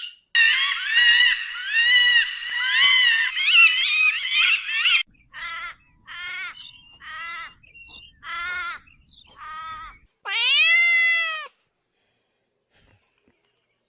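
A series of animal calls: a dense run of high, arching calls that stops abruptly, then five short calls about half a second apart, then one long, loud call that rises and falls in pitch.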